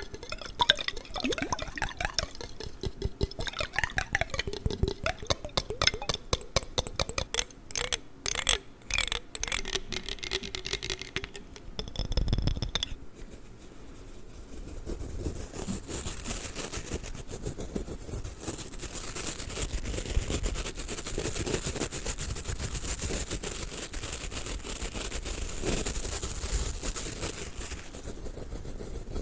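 Close-miked ASMR handling of a water jar, with rapid tapping and clicking on the jar and its water. About 13 seconds in this gives way to a steady, high brushing hiss from a ladybug brush.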